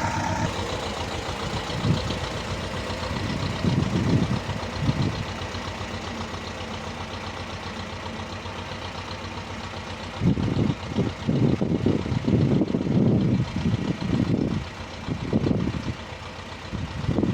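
Walk-behind rotary tiller's engine running as its tines churn garden soil. In the second half the sound comes in repeated irregular louder low surges as the machine works.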